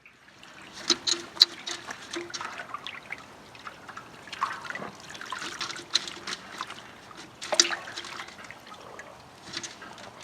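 A chicken carcass being swished and dunked in a barrel of scalding water at about 160 degrees, with irregular sloshing, splashing and dripping. This is the scald, which loosens the feathers for plucking.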